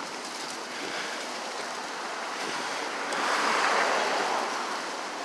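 Strong wind blowing outdoors and buffeting the microphone, swelling into a louder gust about three seconds in.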